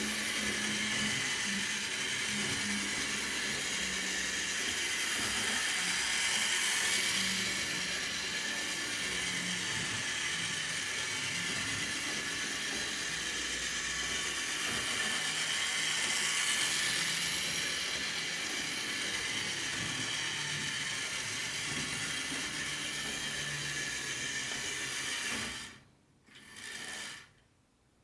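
HO-scale electric model train locomotive running on its track, its small motor and wheels making a steady mechanical whirring. Near the end it stops, runs again for about a second, and stops.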